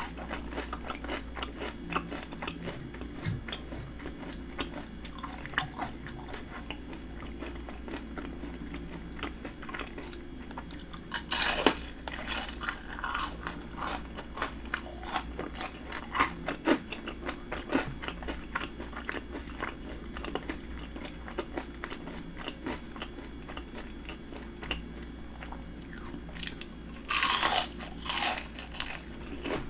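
Crunchy chewing of breaded fried shrimp: a steady run of fine crackling crunches from the crisp batter, with two louder crunching bites, one about 11 seconds in and one near the end.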